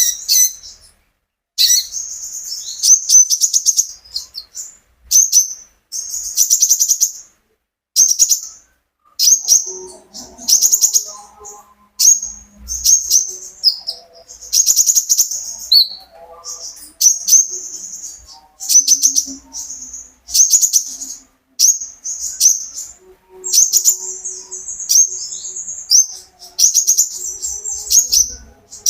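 Konin (kolibri ninja), a small sunbird, singing in rapid, high, chattering phrases. The phrases follow one another about every second with short pauses between them.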